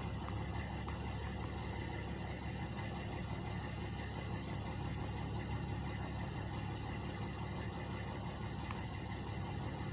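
Truck engines idling, a steady low drone that holds unchanged throughout.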